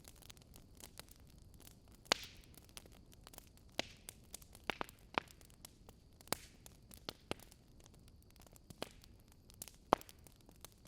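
Wood fire burning, with irregular sharp crackles and pops from the logs over a faint steady hiss; the loudest pops come about two seconds in and near the end.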